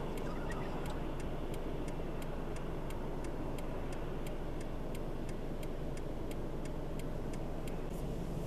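Steady vehicle and road noise, with a light, regular ticking about three times a second.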